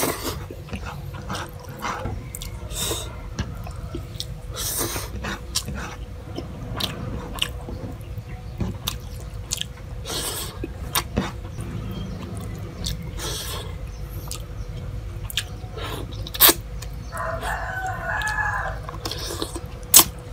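Wet chewing and lip-smacking of rice and fish eaten with the fingers, with short sticky clicks of the mouth and fingers and two sharp clicks near the end. A rooster crows once in the background about three-quarters of the way through.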